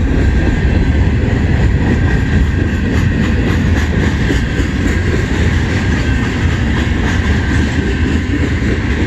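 CN freight train cars rolling past, a steady loud rumble of steel wheels on rail, with a clatter of wheels over rail joints in the middle stretch.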